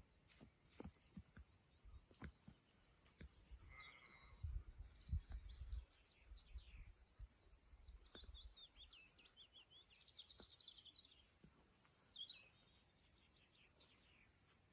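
Faint bird chirping: many short, quick high notes, mostly falling in pitch, in runs through the middle of the stretch. A low rumble comes in briefly about four to six seconds in.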